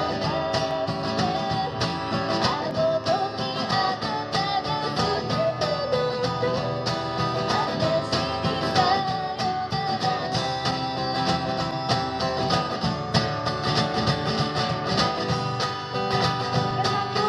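Live acoustic guitar music: steady strumming under a wavering melody line.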